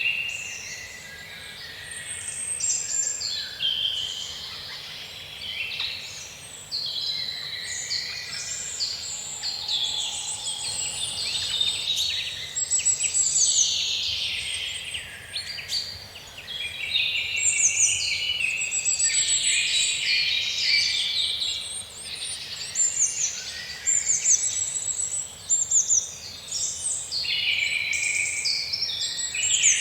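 Several songbirds singing at once in woodland, a dense chorus of overlapping trills, warbles and chirps with no break.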